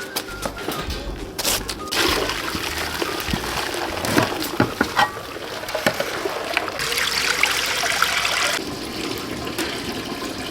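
Water pouring and splashing in uneven gushes, with a few sharp clicks and knocks.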